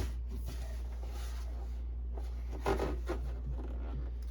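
Steady low hum of a dehumidifier, with light rubbing and two soft knocks about two and three-quarter and three seconds in as printer parts are handled.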